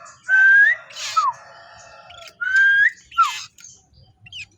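Common iora (cipoh) singing: two identical whistled phrases about two seconds apart, each a long level note that lifts at its end, followed by a short falling whistle with a rasp.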